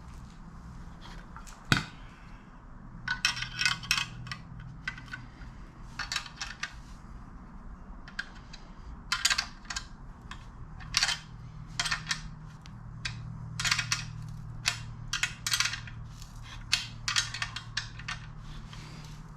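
Metal parts and hand tools clinking and rattling as a brake pedal assembly is put together, in scattered sharp clicks and quick clusters of clicks, over a steady low hum.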